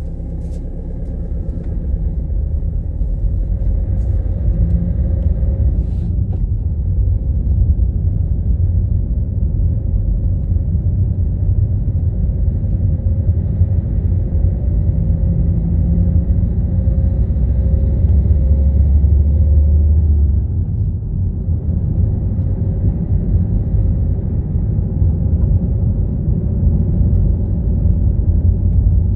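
Car on the move: a steady, deep rumble of engine and road noise, with a couple of light clicks about four and six seconds in.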